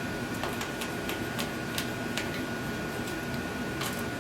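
A scarlet macaw's beak tapping and clicking against nuts and her food bowl, in an irregular string of light sharp clicks about two to three a second, over a steady room hum.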